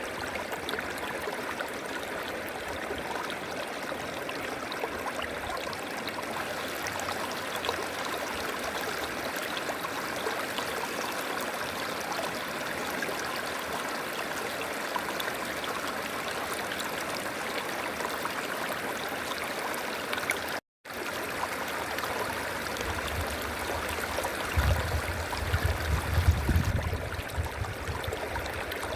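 River water flowing in a steady, even rush. About 20 seconds in the sound cuts out completely for a split second, and near the end a low rumble swells and fades over a few seconds.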